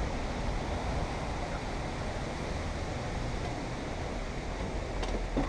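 Steady rushing background noise, with no distinct knocks, scrapes or tool sounds.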